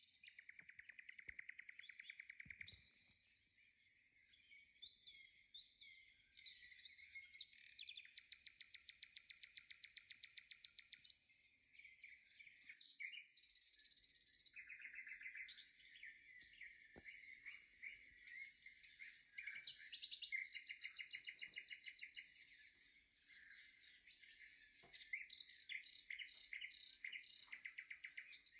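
Faint birdsong: chirps and several rapid trills of quickly repeated notes from small birds.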